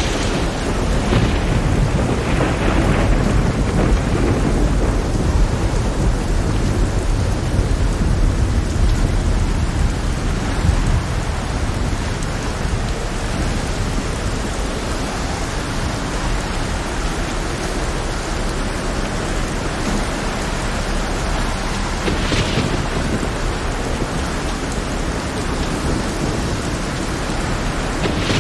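Heavy rain falling steadily, with a deep rolling rumble of thunder through the first ten seconds or so and a few brief sharper crackles later.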